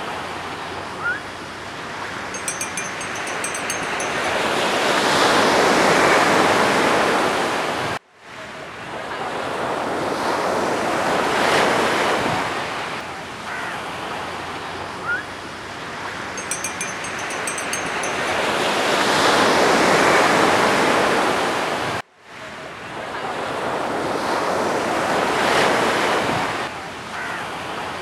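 Sea surf washing in and receding in slow swells, each rising and falling over several seconds. The sound drops out abruptly twice, and a few faint short chirps show now and then.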